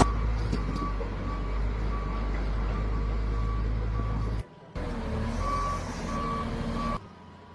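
Heavy vehicle's reversing alarm beeping repeatedly over the low rumble of its engine. Both drop out briefly about four and a half seconds in, then stop shortly before the end.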